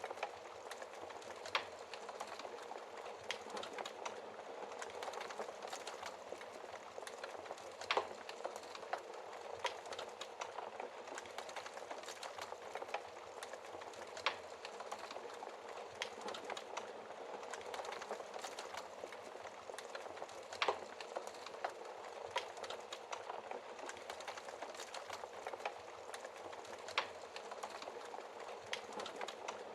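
Wood fire burning in a fireplace, a steady dense crackle of burning logs with a few louder sharp pops every several seconds.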